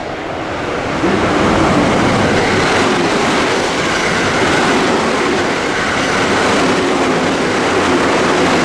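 JR West electric train running through the station along the platform: a loud, steady rush of wheel and rail noise that swells about a second in and then holds.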